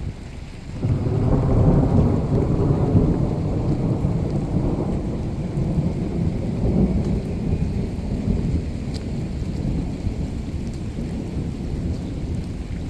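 Thunder over steady rain: a deep rumble breaks in about a second in, is loudest for the next couple of seconds, then rolls on and slowly dies away.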